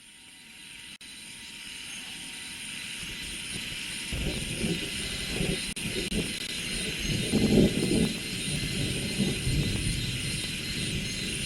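Rice-field ambience fading in: a steady high insect chorus with a faint pulsing chirp above it. About four seconds in, an uneven low rumble joins and becomes the loudest sound.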